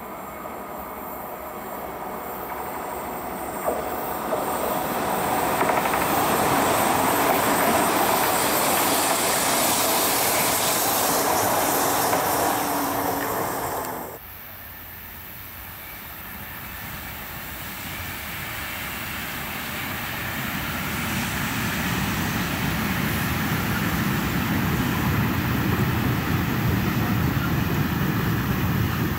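A Class 412 ICE 4 high-speed electric train approaching and passing at speed, its rushing running noise swelling over several seconds and cutting off abruptly about halfway through. Then the low rumble of a freight train of tank wagons builds steadily as it nears.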